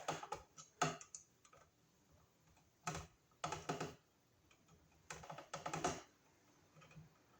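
Bunched electrical wires being twisted together, in several short bursts of clicking and rattling with quiet gaps between.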